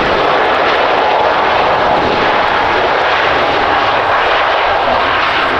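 Jet airliner's engines, loud and steady at close range, with a faint whine in the noise.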